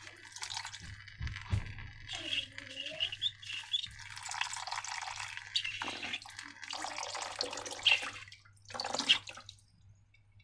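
Wet dripping and squelching of thick liquid slime being squeezed and poured from a balloon, with a brief rubbery squeak a couple of seconds in. The sounds die away near the end.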